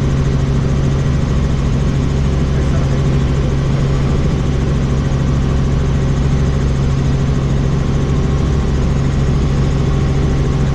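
Helicopter in flight heard from on board: a steady, loud drone of rotor and engine that does not change.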